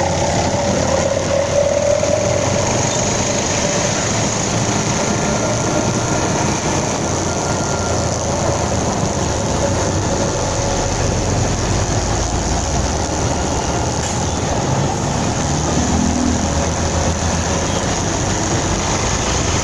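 Motorcycle engine running steadily while riding, mixed with road noise.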